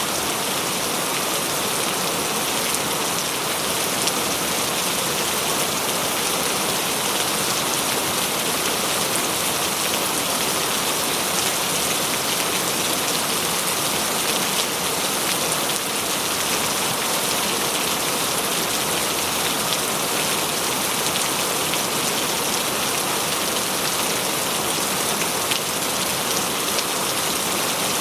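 Steady rain falling on a surface, an even hiss with fine pattering drops and no thunder.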